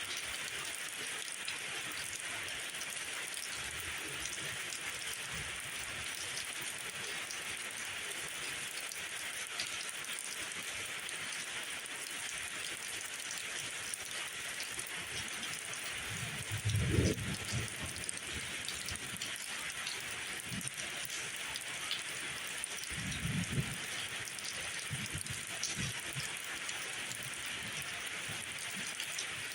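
Steady rainfall hissing on leaves and ground. A few brief low rumbles rise under it, the loudest about halfway through and smaller ones later.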